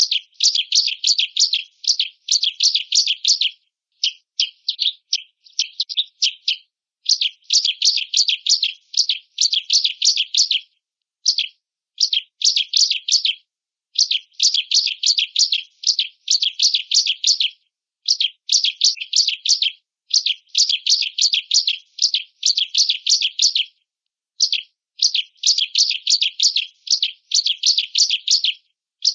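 Ciblek (bar-winged prinia) singing: rapid, high-pitched trilled phrases, one after another with short pauses between them.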